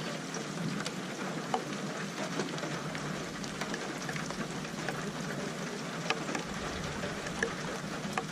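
Steady rainfall, a continuous hiss of rain with scattered sharp drop hits on a nearby surface.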